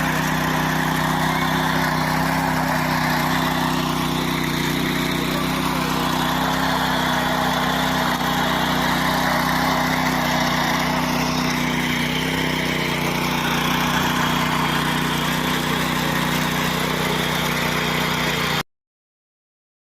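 Tractor engine running steadily at an even speed; the sound cuts off abruptly near the end.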